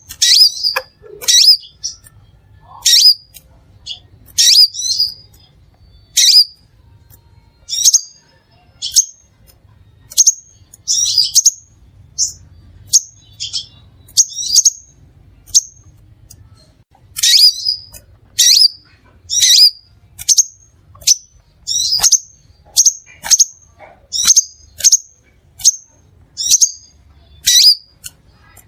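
Crimson sunbird calling: short, sharp, high-pitched chips repeated about once a second, some in quick pairs.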